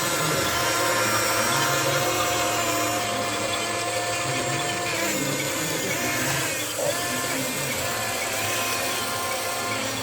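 Whine of the small electric motors and gearboxes of radio-controlled model trucks and machinery, several tones at once shifting in pitch as the models speed up and slow down.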